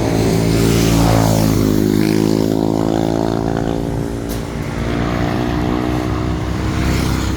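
Motorcycle engine running close by and accelerating: its note climbs, drops back about a second and a half in, and climbs again, and does so once more about five seconds in, as it works up through the gears.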